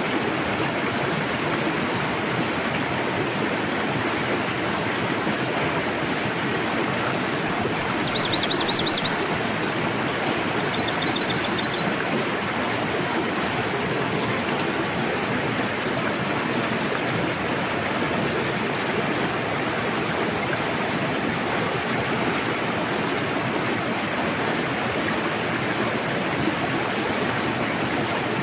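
Forest river rushing steadily. A small bird sings two short, rapid trills about eight and eleven seconds in.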